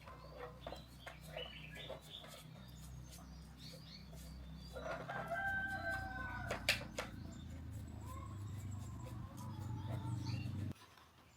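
A bird gives one drawn-out call about five seconds in, over a steady low hum and scattered light clicks and taps. The hum cuts off suddenly near the end.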